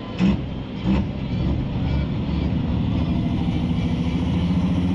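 Pulling tractor's engine blipped sharply twice, each a quick rise in pitch, then held at a steady high rev that slowly grows louder.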